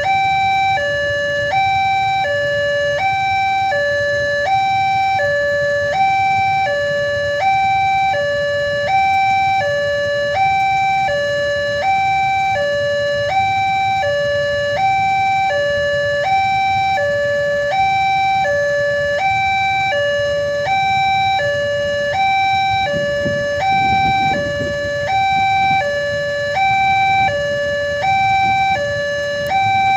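Railway level-crossing warning alarm sounding a steady two-tone high-low signal, about one high-low pair a second, warning that a train is approaching and the barriers are down. A low rumble lies under it, swelling briefly about two-thirds of the way through.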